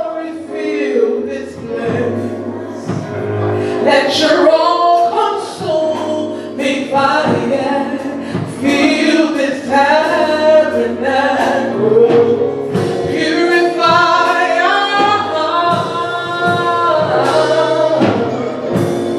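Gospel worship song sung by male and female voices together, over a sustained instrumental accompaniment.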